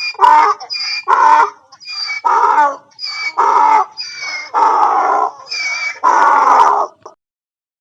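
Chicken squawking in a rapid series of about a dozen loud calls, short high notes alternating with longer, fuller ones. The calls stop about seven seconds in.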